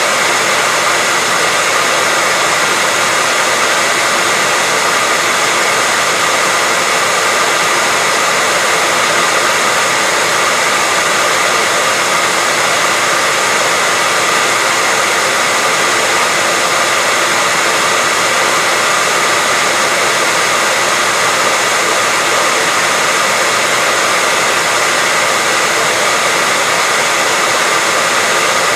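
Hair dryer running steadily, a constant airy whoosh with a faint steady whine in it, played as white noise for lulling a baby to sleep.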